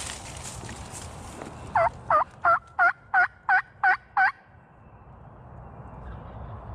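A series of eight hen turkey yelps made on a mouth diaphragm call, evenly spaced at about three a second and each note dipping and rising in pitch. This is a turkey call aimed at a gobbler to bring him in.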